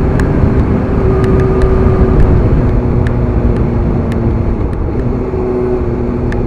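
Motorcycle cruising at a steady speed: the engine holds an even pitch under a heavy rush of wind noise on the rider's microphone.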